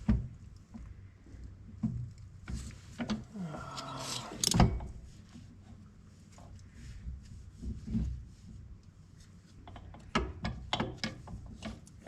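Hand tools working on a corn planter's wheel hub to get a bearing out: scattered knocks and clicks, a scrape about three seconds in that ends in a loud knock, then a run of quick clicks near the end.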